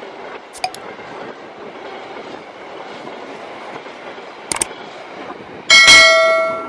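Passenger train of stainless-steel coaches rolling past with a steady wheel-on-rail noise. About four and a half seconds in there is a mouse-click sound effect, then a loud notification-bell ding that rings and fades near the end, as an on-screen subscribe button and bell are pressed.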